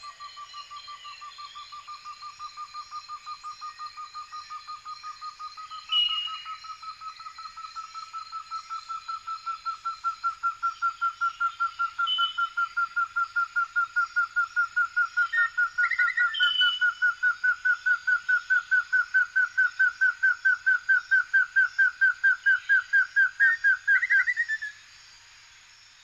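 Tropical forest daytime ambience: a bird calls a long series of short whistled notes, about three a second, slowly rising in pitch and growing louder until it stops about 24 seconds in. Steady high insect buzzing and a few short calls from other birds run underneath, and the sound fades out at the end.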